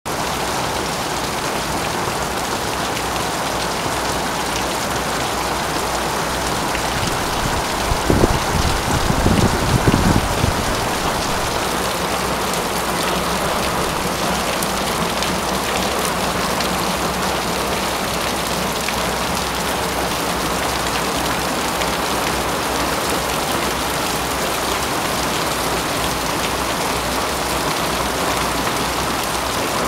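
Steady rain falling, an even hiss of drops on surfaces. About eight seconds in, a low rumble rises over it for a couple of seconds.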